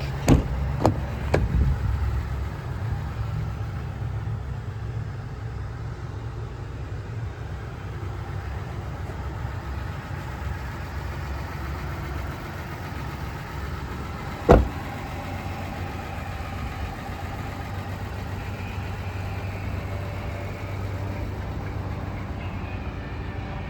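3.0L Duramax inline-six turbo-diesel idling steadily, with a few sharp clicks in the first second or so and one loud clunk about fourteen seconds in.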